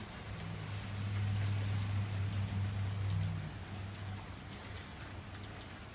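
Steady rain falling and pattering on surfaces during a thunderstorm. A low rumble swells about a second in and fades after about four seconds.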